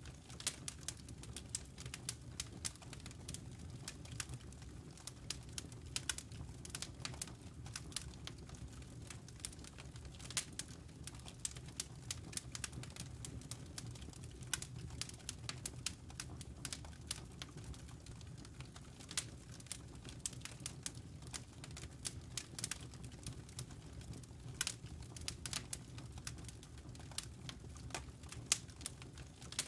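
Campfire burning, wood and embers crackling with many irregular sharp pops and snaps over a steady low rumble of the fire.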